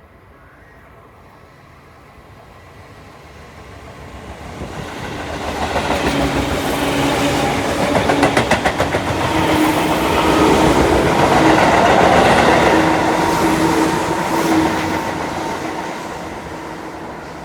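Electric commuter train passing a level crossing. It grows louder, goes by and fades. The wheels clatter over rail joints partway through, under a steady motor hum.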